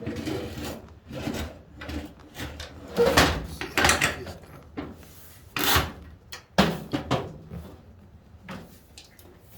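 Irregular clunks, knocks and scraping as a car seat and its trim pieces are shifted and pulled by hand, loudest in the middle of the stretch.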